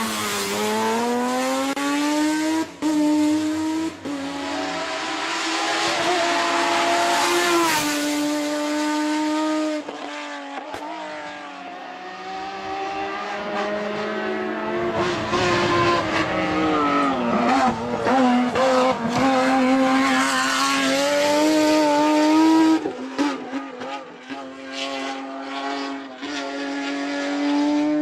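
Renault Mégane V6 Trophy race car's V6 engine driven hard at high revs, the pitch repeatedly climbing through the gears and dropping back on shifts and braking. Tyres squeal in places.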